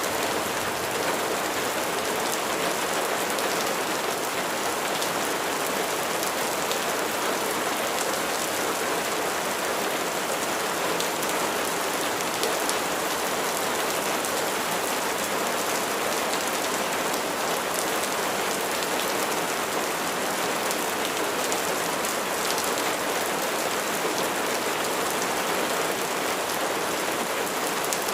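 Steady rain falling on a surface: an even hiss of rainfall with faint scattered drop ticks.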